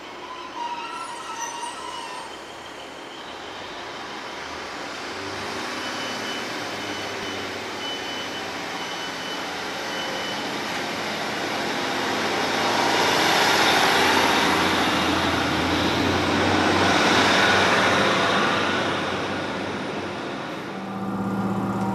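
Diesel multiple-unit passenger train running through the station, its rumble and wheel noise building up, peaking for several seconds, then easing off. A steady low engine hum begins near the end.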